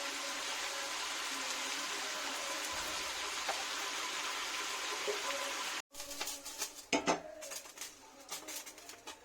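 Curry frying in a pan with a steady sizzle. After an abrupt cut, a spoon knocks and clinks against the pan, with the loudest strikes about seven seconds in.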